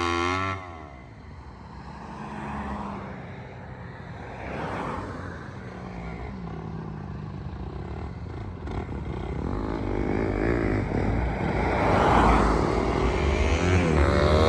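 250cc four-stroke single-cylinder dirt bike engine running: it falls away about half a second in, stays fainter through the middle, then grows steadily louder with rising and falling revs near the end.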